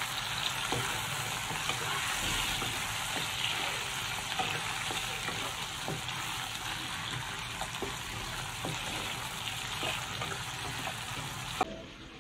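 Red chillies, red onions and garlic sizzling in hot oil in a wok, stirred with a wooden spatula that ticks and scrapes against the pan now and then. The sizzling cuts off with a click just before the end.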